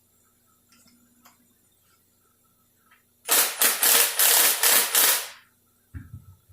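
Air-powered wrench spinning a socket in a loud burst of about six short rattling pulses, working loose a stubborn shift-linkage nut on a 46RE transmission. A low thud follows near the end.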